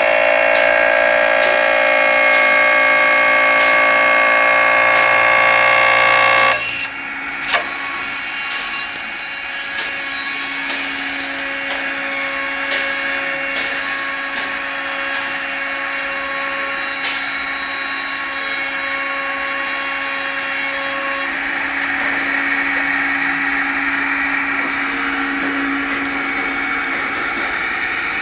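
CNC router spindle cutting beech wood. For about seven seconds there is a steady whine of several tones. After a brief dip it turns into a rougher, hissy cutting sound over a lower steady hum, and the hiss eases about 21 seconds in.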